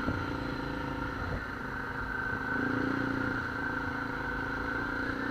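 Off-road side-by-side vehicle's engine running steadily, with a steady drone.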